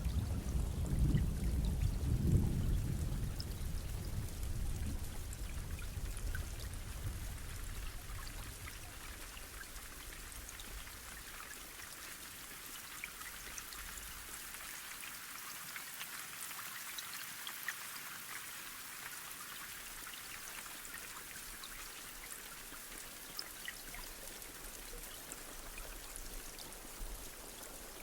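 Steady rain falling, with individual drops ticking. A low rumble is loudest in the first few seconds and fades away over the first eight seconds or so.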